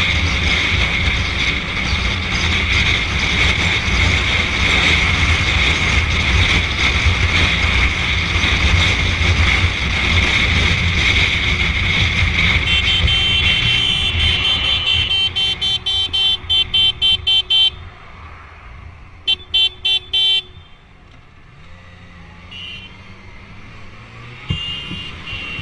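Motorcycle riding at speed with steady wind and engine noise, which drops away about halfway through. A vehicle horn then sounds in a long run of rapid short beeps, followed by a second burst of about four.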